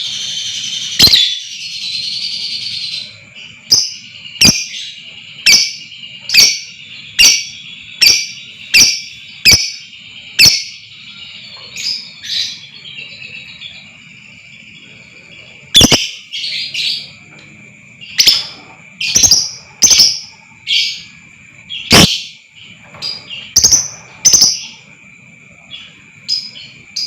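Lovebird calling: a rapid chattering trill for the first few seconds, then a string of sharp, loud chirps about once a second over a steady high-pitched tone.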